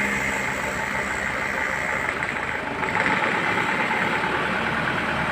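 A heavy vehicle's engine running steadily at low revs.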